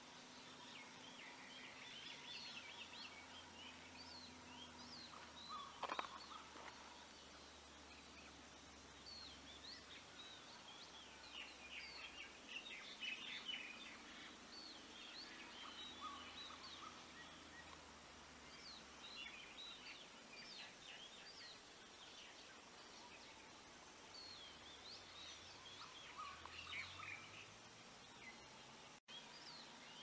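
Faint background of small birds chirping in scattered bursts, with one brief, louder sound about six seconds in and a split-second dropout near the end.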